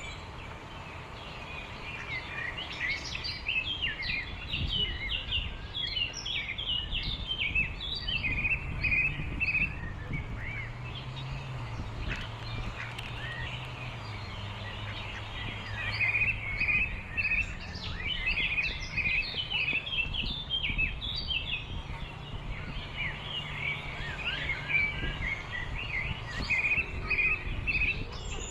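Many small birds chirping in dense spells of short, rapid calls, over a faint low steady hum.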